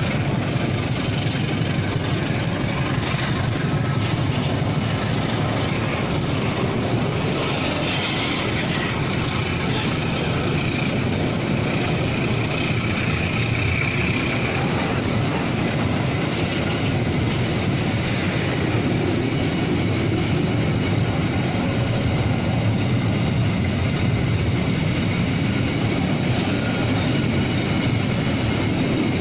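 Diesel-hauled train of fuel tank wagons running, a steady rumble.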